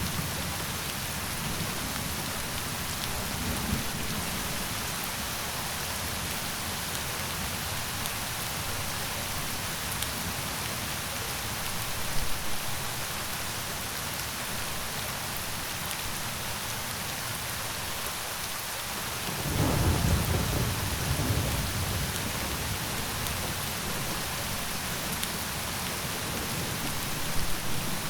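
Steady rain falling, with a low rumble of thunder coming in about two-thirds of the way through and rolling on for a few seconds.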